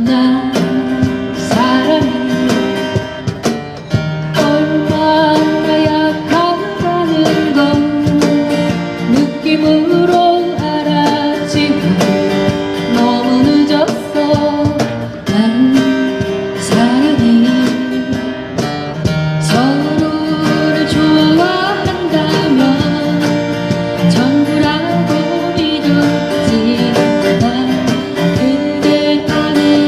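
A voice singing a Korean pop ballad over a strummed acoustic guitar.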